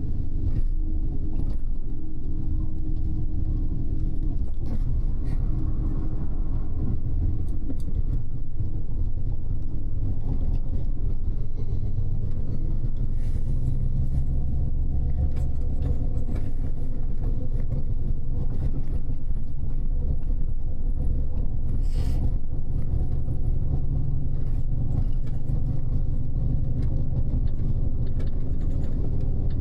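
Steady engine and road rumble of a double-decker express bus, heard from inside on the upper deck, with a short click about two-thirds of the way through.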